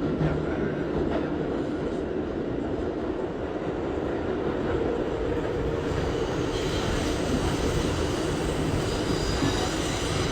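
R62A subway car running through the tunnel, a steady rumble of wheels on rail heard from inside the car. About six seconds in, a high-pitched wheel squeal joins the rumble as the train nears the station.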